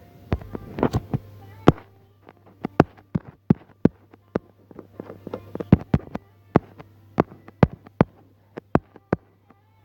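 A series of sharp, irregular clicks or taps, about two or three a second, over a steady low hum.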